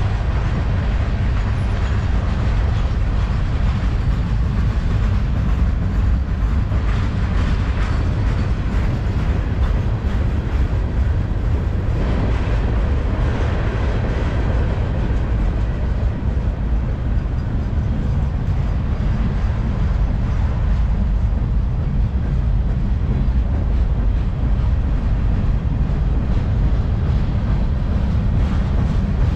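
Freight train railcars rolling past on the track with a steady low rumble and wheel noise.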